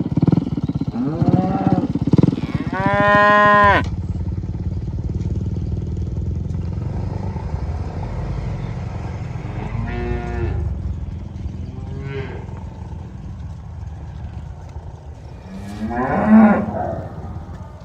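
Cattle mooing: several calls, the longest and loudest about three seconds in, shorter ones around ten and twelve seconds in, and another near the end, over a steady low rumble.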